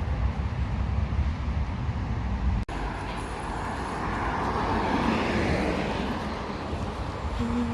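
Road traffic noise: a steady low rumble, a sudden break after about two and a half seconds, then the noise of a passing vehicle swelling and fading in the middle.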